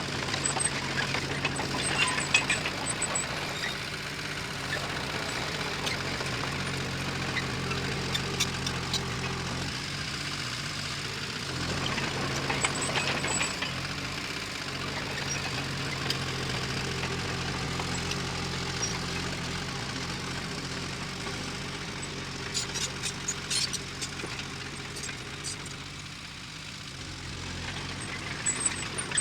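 Diesel engine of heavy earth-moving machinery running steadily under a light load, with groups of sharp clanks every few seconds.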